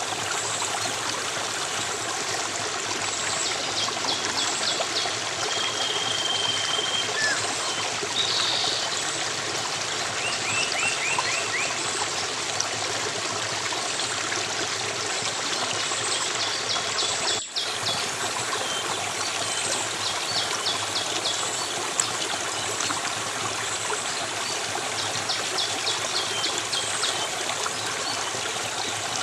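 A stream of water flowing steadily, with small birds chirping and giving quick high trills now and then. The sound drops out for an instant about 17 seconds in.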